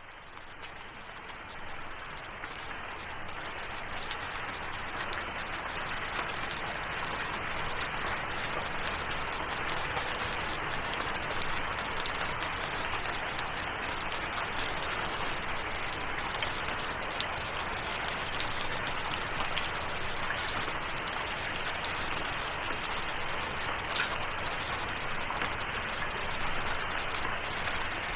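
Steady rain falling, with scattered sharp drop ticks over the even hiss. It fades in over the first few seconds, then holds level.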